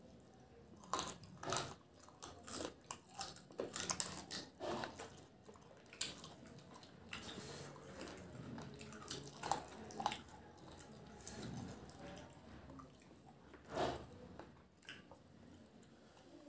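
Close-up chewing and biting on pieces of desi (country) chicken on the bone, tough meat that takes a lot of chewing, with irregular mouth clicks and smacks that are busiest in the first five seconds and thin out after.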